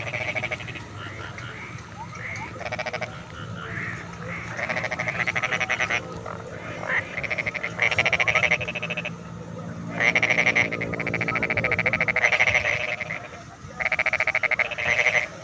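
Frogs in a rice paddy calling: rattling croaks made of rapid pulses, several frogs overlapping in bouts of a second or two, over a low steady hum.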